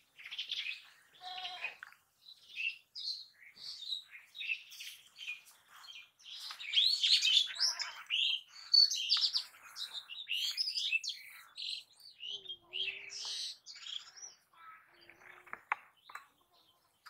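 Birds chirping, with many short high calls and trills overlapping. They are busiest and loudest about halfway through.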